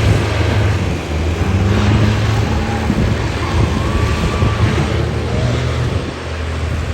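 Truck engine running at a steady speed: a loud, low, steady drone.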